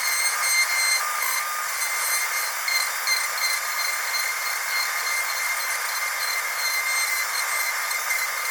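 Dentist's high-speed drill running with a steady high-pitched whine over a hiss.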